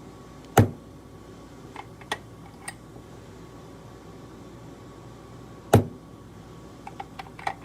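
Two sharp hammer blows on a steel letter stamp, about five seconds apart, each driving one letter into a metal blank, with a few light clicks of stamps being picked up and set down between and near the end.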